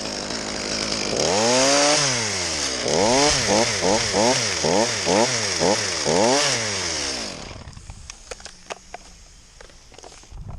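Two-stroke chainsaw revving up and down: one long rise and fall in pitch, then a string of quick throttle blips at about two a second. It stops about three-quarters of the way through, leaving a few faint knocks and clicks.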